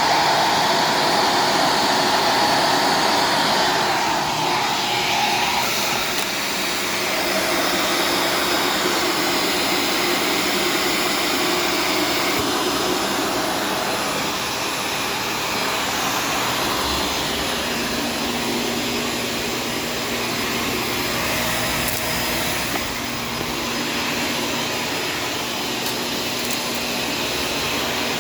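Shark Stratos corded vacuum cleaner running steadily while vacuuming a kitchen floor, its motor tone shifting a few times as it is pushed about.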